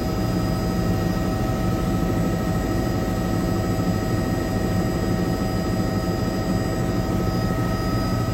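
Helicopter in flight heard from inside the cockpit: a steady rotor and engine rumble with several constant high tones above it.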